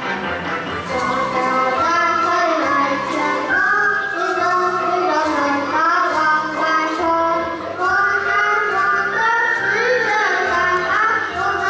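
Children's group performance: young voices carry a melody over music with a steady beat.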